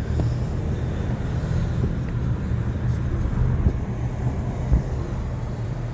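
Steady road and engine rumble heard from inside the cab of a truck driving through town, with two brief low thumps near the middle.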